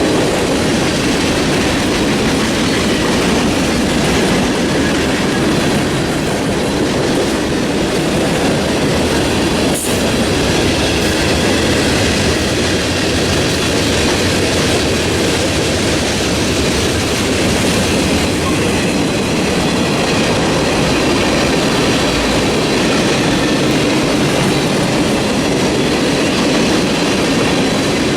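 Freight train cars rolling past, a steady, loud rumble and rattle of steel wheels on the rails.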